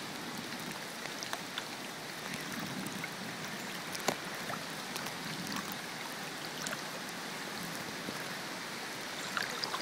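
Floodwater swishing and lapping steadily around a person wading chest-deep, with a few faint ticks, the clearest about four seconds in.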